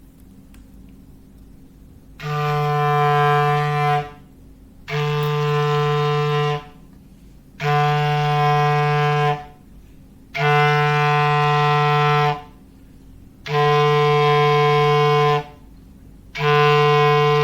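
Foghorn sound effect: a low, steady horn tone sounded in six blasts of about two seconds each, roughly a second apart. The last blast is still sounding at the end.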